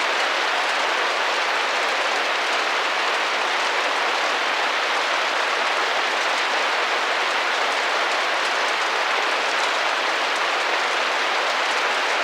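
Steady rain tapping against a window pane, an even hiss of many small drops.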